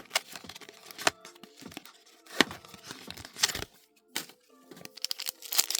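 A foil booster-pack wrapper is torn open and crinkled. There are scattered sharp rustles and clicks, and a denser stretch of crinkling near the end.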